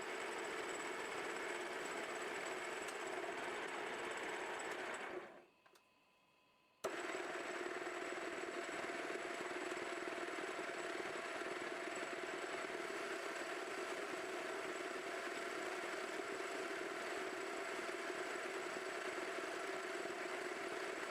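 Restored OF-55 universal milling machine running under load, milling a 5 mm cut in cast iron: a steady motor and gearbox hum with a steady whine, smooth and without chatter. The sound fades out about five seconds in and comes back suddenly under two seconds later.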